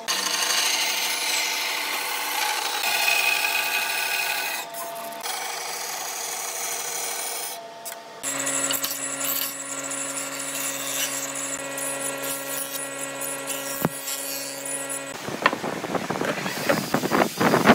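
Hand and power tools working wood in a string of cut-together shots: scraping and rasping on wood at first, then a power tool's motor running steadily for several seconds, then rapid rough strokes near the end.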